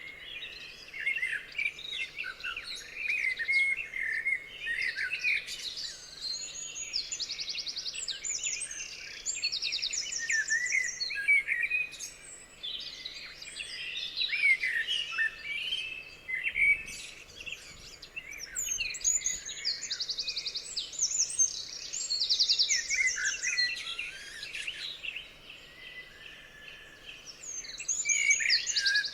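Several songbirds singing at once: overlapping whistled phrases, chirps and rapid high trills, with brief lulls.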